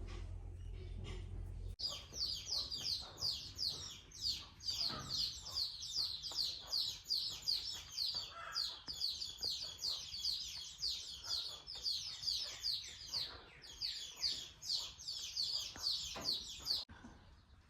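Bird chirping: a rapid run of high, falling chirps, two or three a second, starting about two seconds in and stopping abruptly near the end.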